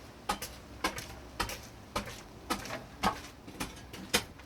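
Sharp clicks or knocks repeating at a steady pace, roughly two a second, often in close pairs.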